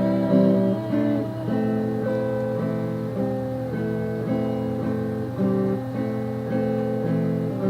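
Acoustic guitar playing chords in a steady rhythm, an instrumental break between sung lines.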